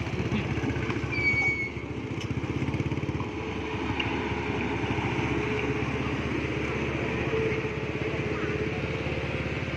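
Mini excavator's diesel engine running steadily, with a fast, even low engine beat throughout.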